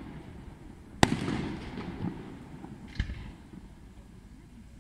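Aerial firework shells bursting: a sharp loud bang about a second in with a long echoing tail, then a second, smaller bang about three seconds in.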